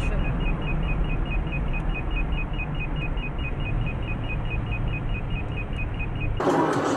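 Steady engine and road noise of a moving car, heard inside the cabin, with a rapid, even high-pitched beeping through the first couple of seconds. Near the end the sound cuts abruptly to a brighter hiss.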